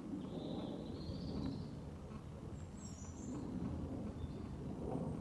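A few faint bird chirps over a steady low rumble of outdoor background noise.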